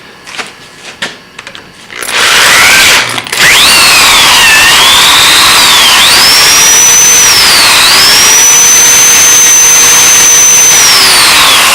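Electric drill cleaning out a welded steel rod bushing: a short run about two seconds in, then a long steady run, its motor whine dipping and rising as the bit loads and frees, winding down near the end.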